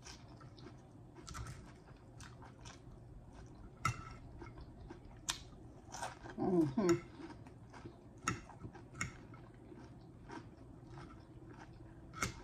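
Close-miked chewing and biting of fried fish balls and salad: wet mouth clicks with a few sharper clicks spread through. A brief voiced hum comes about six seconds in.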